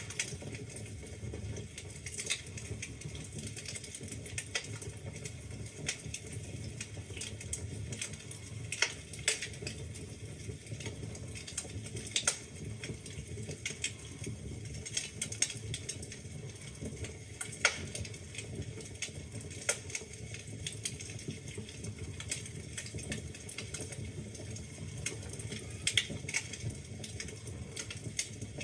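Wood fire burning in a fireplace: a steady low rumble of flames with irregular crackles and sharper pops from the burning logs.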